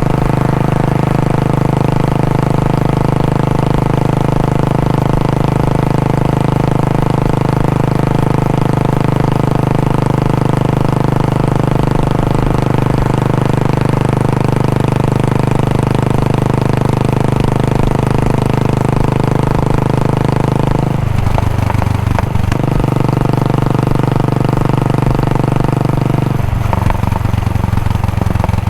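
Royal Enfield Bullet 500's single-cylinder engine idling through its stock exhaust, a steady even beat. About 21 seconds in and again about 26 seconds in, the note briefly changes for a second or two before settling back.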